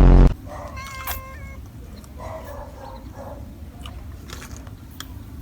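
A cat meowing several times, with short pitched calls after a brief, very loud low burst at the very start.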